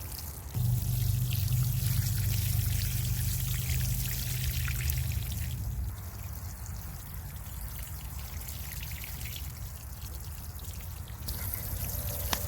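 Water pouring steadily, with a louder low rumble from about half a second in until about six seconds.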